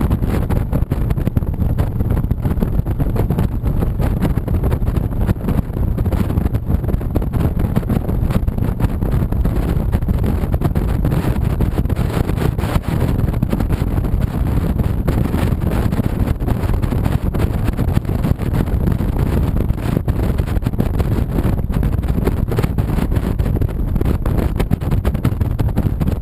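Honda VTX 1300C V-twin motorcycle running steadily at riding speed, with wind rushing over the microphone. Loud and unbroken, the noise weighted toward the low end.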